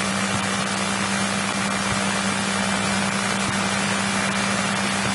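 Steady cabin noise of a 1963 Cessna 172E with its Continental O-300 engine running on the ground before taxi: an unchanging hum under an even hiss.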